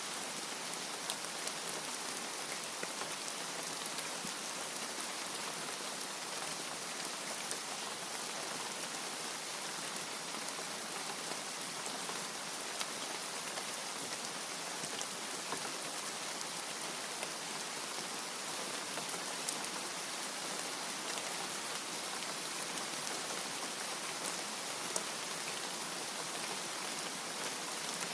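Steady rain falling, an even hiss with many small separate drop ticks, unchanging in strength and with no thunder.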